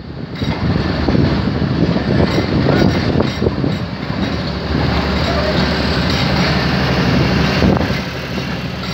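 Pak Business Express passenger train running through a station, heard from an open coach doorway: a steady rumble of wheels on the rails.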